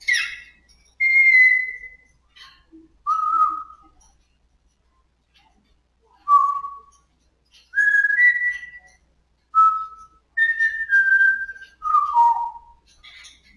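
African grey parrot whistling a series of about eight short, clear notes with pauses between them, some in two-note pairs and the last ones sliding down in pitch, after a brief harsher call at the start.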